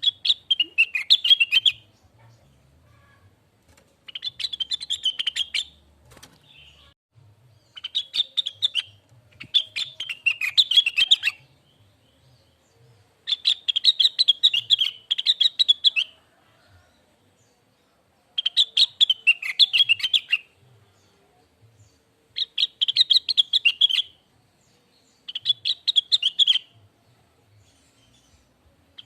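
Cucak wilis (blue-winged leafbird) singing in repeated phrases of fast, chattering, warbling notes, each phrase lasting one to three seconds and separated by short pauses.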